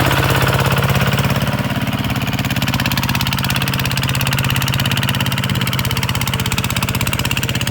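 Diesel engine running steadily, its firing heard as a fast, even pulse.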